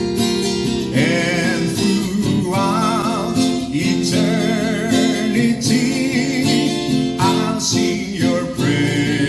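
A worship song sung to strummed acoustic guitar. The voice comes in about a second in and holds notes with vibrato over the steady strumming.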